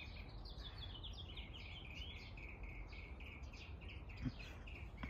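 A small bird chirping over and over in a quick run of short notes, over a steady low outdoor rumble, with a single soft knock about four seconds in.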